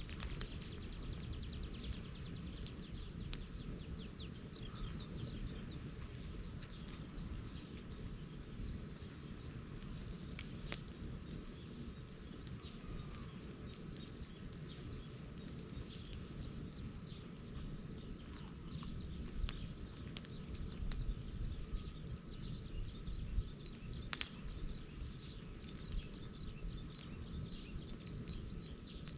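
Bonfire of dried bamboo and brush burning with a steady low rumble and scattered sharp cracks and pops. Birds chirp rapidly in the background throughout.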